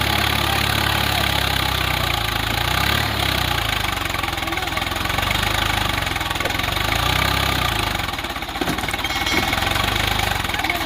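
Swaraj 744 FE tractor's three-cylinder diesel engine running steadily as it drives a Shaktiman rotary tiller, dipping briefly in level about eight seconds in.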